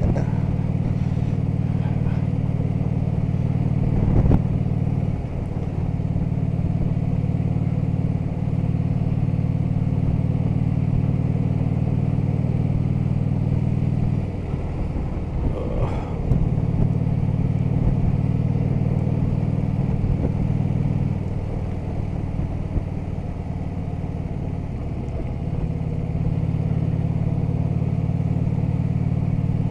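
Harley-Davidson touring motorcycle's V-twin engine running steadily while riding, the note easing off twice in the second half as the throttle is rolled back.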